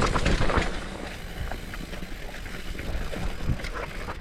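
Mountain bike rolling down a dirt trail: tyre rumble and drivetrain rattle under rushing wind on the microphone, with a louder clatter of knocks in the first half-second.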